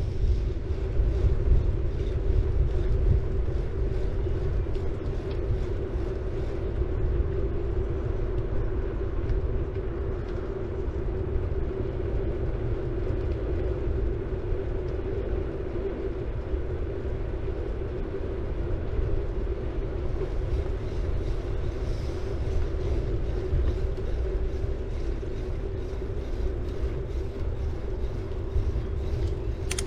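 City bike rolling along a road: tyre noise with a steady hum, and wind rumbling on the microphone. Faint fine ticking shows in the first few seconds.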